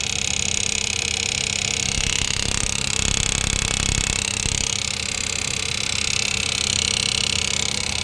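Car engine running at idle with a continuous high, wavering chirping squeal from the engine or gearbox area that sounds like birds. The mechanic does not think it comes from the AC.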